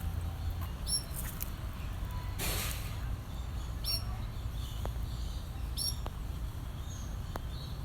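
Bird chirping: short, high, sharply hooked calls repeated every two or three seconds, over a steady low rumble. A brief burst of hissing noise comes about two and a half seconds in.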